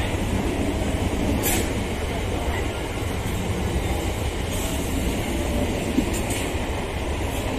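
Indian electric multiple-unit suburban local train passing close by at speed on a curve: a loud, steady rumble of wheels on rail, with a few brief high wheel squeals.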